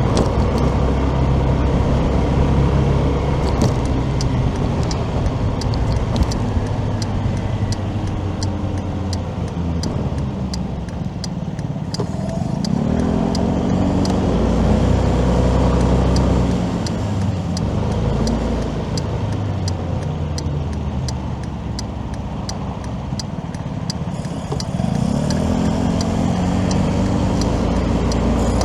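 Motorcycle engine and road noise while riding, with the engine rising in pitch as it accelerates about halfway through and again near the end. A light tick repeats about twice a second through most of it.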